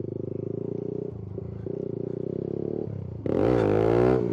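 Kawasaki Z125 Pro's small single-cylinder four-stroke engine running steadily at low revs, then revving up sharply and louder about three seconds in.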